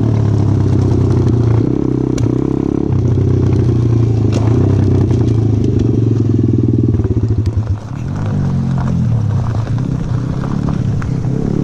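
125cc four-stroke pit bike engine running under throttle, easing off briefly about eight seconds in and then pulling again with shifting pitch, with scattered clicks and rattles.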